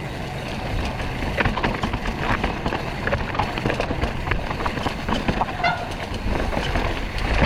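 E-mountain bike rattling and clattering over a rocky technical trail, with a steady wind rumble on the microphone. A brief squeal a little over five and a half seconds in.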